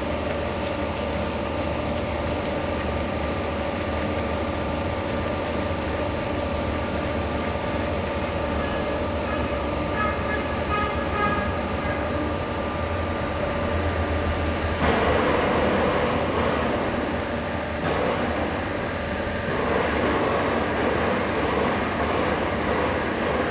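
Large vertical lathe (VTL) running, a steady mechanical hum with several steady tones. About fifteen seconds in a louder, rougher noise comes in, and it comes back again a few seconds later.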